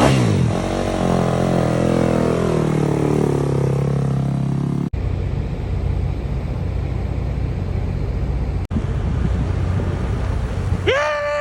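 A pack of motocross bikes racing, many engines revving together and falling away in pitch as the bikes pull away. The sound cuts off abruptly twice. Near the end a single bike's engine note sweeps down in pitch as it passes.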